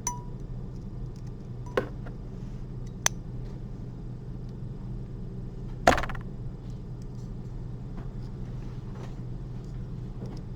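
Metal surgical instruments clicking and clinking a few times during suturing, with the loudest knock about six seconds in, over a steady low hum.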